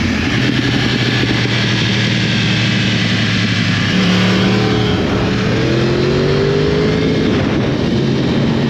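2012 Yamaha YZF-R1 sport bike's inline-four engine running hard under way, its pitch climbing in the second half as it accelerates.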